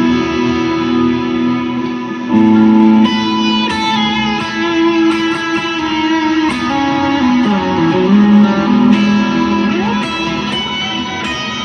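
Electric guitar played through an Ibanez TS Mini overdrive with Strymon BigSky Cloud reverb, heard through studio monitors in the room. Sustained chords and single notes ring into one another, with a note bent down and back up near the middle.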